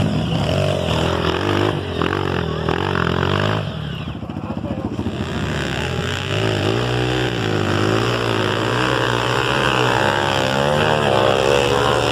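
Off-road trail motorcycle engine being ridden, its revs rising and falling again and again.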